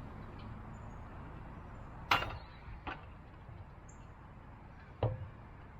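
Three sharp clinks, the first about two seconds in and the loudest, over a steady low background noise.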